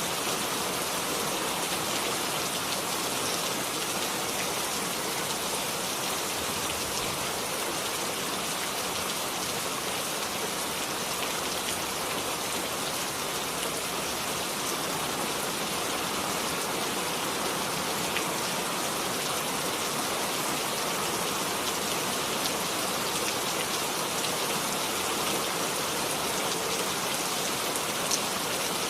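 Steady rain falling and pattering on a surface, with many fine drop ticks and one slightly louder drop near the end.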